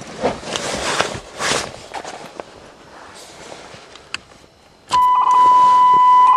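Rustling and handling noise inside an old Pontiac, then a click, and about five seconds in the car's dashboard warning buzzer comes on as one loud steady tone that holds.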